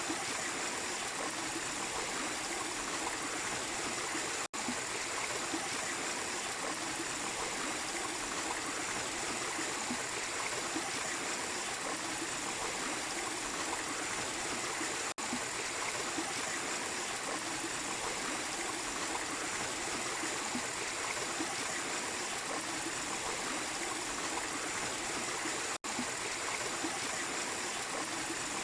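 Small waterfall and stream water running steadily in a continuous rush, cutting out for a split second three times.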